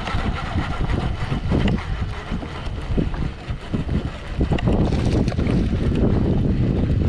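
Strong wind buffeting the microphone in uneven gusts, a deep rushing noise.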